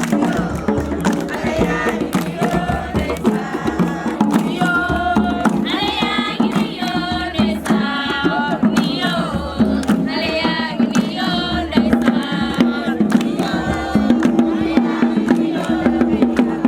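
A group of young people singing a campfire song together, with a steady beat of percussion strikes.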